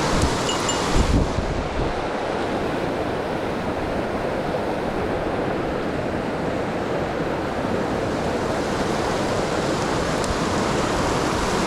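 Mountain stream water rushing steadily over rocks. A few faint bell-like tinkles and a low bump of handling or wind on the microphone come in the first second or so.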